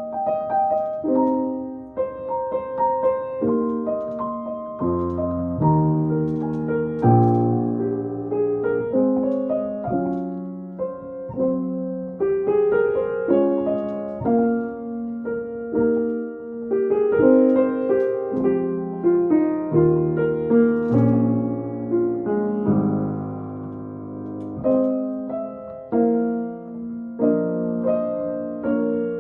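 Yamaha piano played solo in a slow improvised piece, with sustained chords and a melody line moving over them.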